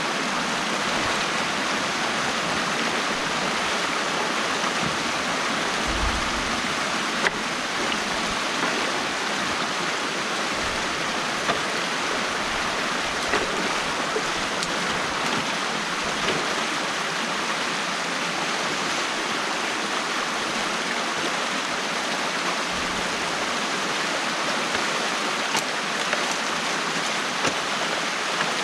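Water rushing steadily through an opened beaver dam, with a few faint clicks and some brief low thumps.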